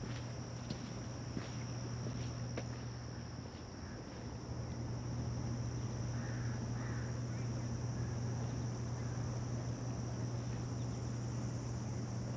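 Summer insects droning steadily at a high pitch, over a low steady hum, with footsteps on a path during the first few seconds.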